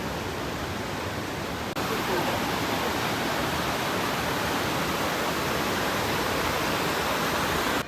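Steady rush of fast-flowing river water. There is a brief break about two seconds in, after which it continues a little louder.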